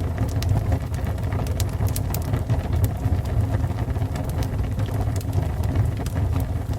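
Fire burning: a steady low rumble with frequent sharp crackles and pops scattered irregularly through it.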